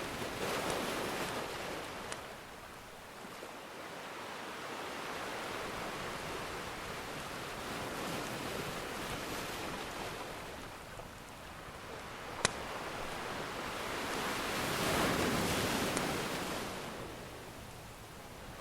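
Ocean surf washing in slow swells, with two larger waves breaking about a second in and near the end. A few sharp pops from a crackling wood fire sound over it, the loudest about two-thirds of the way through.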